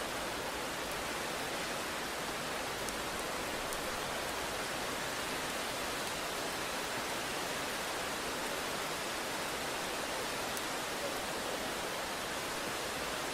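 Steady rain: an even hiss at a constant level, with a few faint ticks of single drops.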